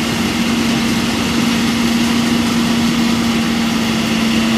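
Combine harvester engine running steadily, a loud even hum with one constant note.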